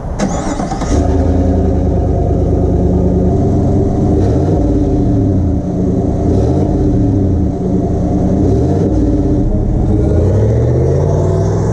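Chevy pickup truck engine starting with a rough burst, settling into a steady idle and then revved up and down a few times through its exhaust.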